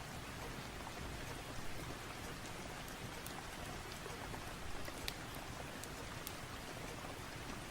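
Steady rain falling, an even hiss of drops, with a few sharp ticks scattered through it.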